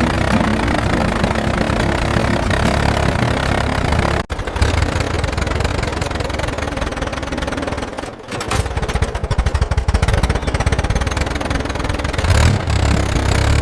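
Cartoon engine sound effect of a tractor running with a low rumble, cutting out briefly about four seconds in and again about eight seconds in.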